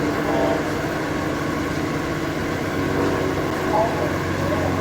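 Diesel locomotive engine idling steadily, with faint voices in the background.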